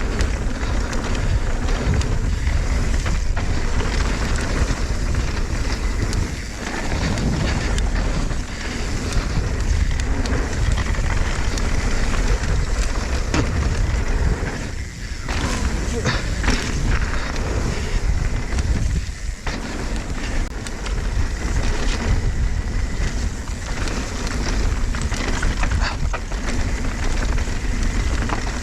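Mountain bike riding fast down a dirt trail: a steady rush of wind on the microphone over tyre noise, with frequent rattles and knocks from the bike, easing briefly a few times.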